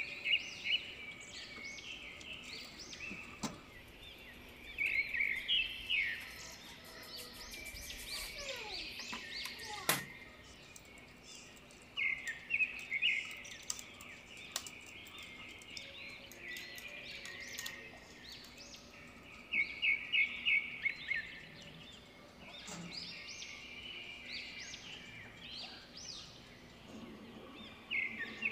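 Small birds chirping in quick runs of high notes, a burst every few seconds, over a faint steady hum, with a single sharp click about ten seconds in.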